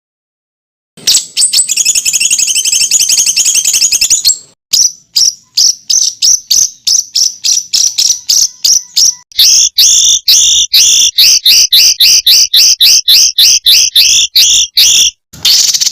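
Recorded songbird calls of the kind used as masteran tutoring material: after a second of silence, a fast high trill for about three seconds, then a run of short sharp notes about four a second that turn louder and two-toned midway, a brief break, and another fast trill starting near the end.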